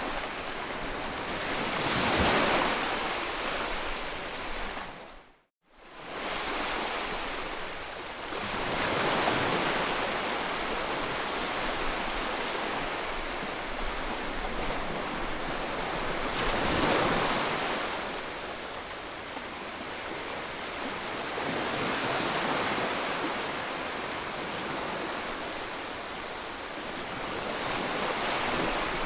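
Sea waves breaking and washing on the shore, the surf swelling and easing every five to eight seconds. About five seconds in, the sound briefly cuts out to silence and fades back in.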